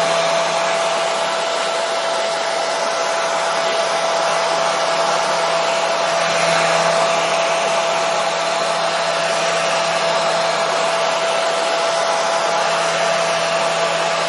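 Hair dryer running steadily: a continuous rush of air with a steady motor whine under it.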